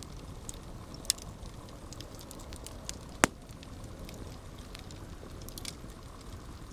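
Campfire burning with a steady low rumble and scattered crackles. One loud pop comes about three seconds in, and a smaller one about a second in.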